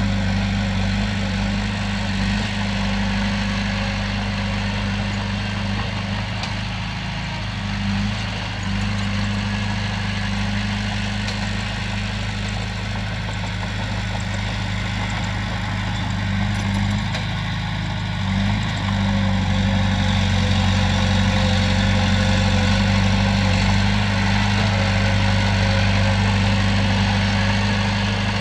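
Heavy diesel engine of earthmoving machinery running steadily, a deep even drone, getting a little louder about two-thirds of the way in.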